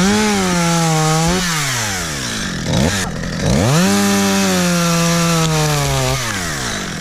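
Two-stroke chainsaw opened to full throttle twice, each burst lasting a couple of seconds. Its pitch sags slightly and holds steady while it cuts into wood, then it falls back toward idle.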